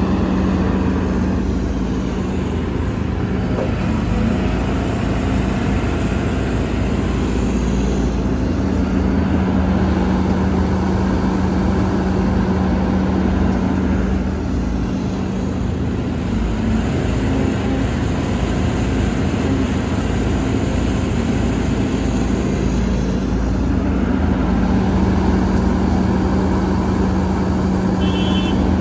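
Heavy diesel earthmoving machinery running continuously with a steady low engine hum that eases off twice for a few seconds, typical of the engine working under changing load.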